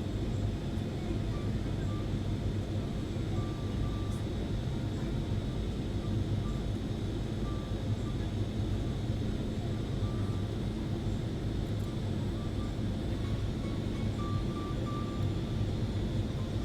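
Steady cabin noise inside a SpiceJet airliner: a continuous low rumble of engines and airflow with a thin high whine above it.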